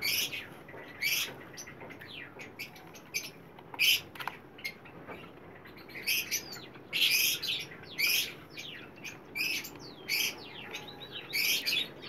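Small birds chirping and tweeting in repeated short, high bursts, about one a second, with quick downward-sweeping notes among them.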